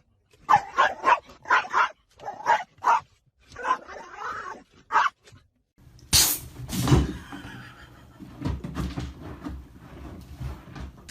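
A dog barking and yelping in a quick series of short calls, about a dozen in five seconds. After a brief gap there are knocks and rustling over a low rumble.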